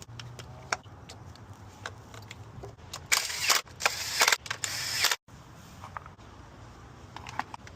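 Tools working on a car engine: scattered sharp metal clicks, with several loud rasping bursts of about half a second each in the middle, over a steady low hum.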